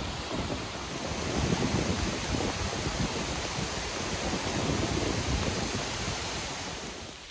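Heavy rain falling in the forest with wind gusting through the trees, a dense steady rush that swells about a second and a half in and again around five seconds.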